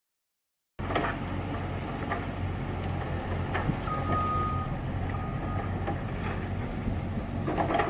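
Truck engine running steadily at a low pitch with scattered clicks. Two high beeps like a reversing alarm come in the middle, the first longer than the second.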